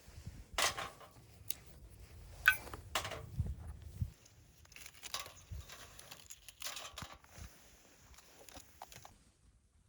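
Paper or kindling for a campfire being torn, crumpled and handled: irregular rustling and crinkling with a few sharp snaps, the loudest about two and a half seconds in, growing sparser in the second half.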